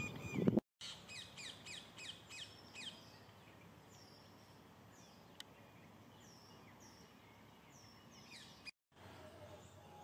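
A brief burst of low noise at the very start, then birds calling: a quick run of about seven sharp, high calls, roughly three a second, followed by scattered high chirps.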